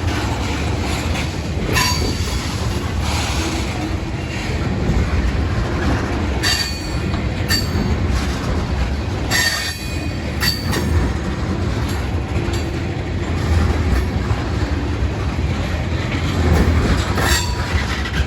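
Freight train of ethanol tank cars rolling past: a steady rumble of steel wheels on rail, broken by brief high wheel squeals several times.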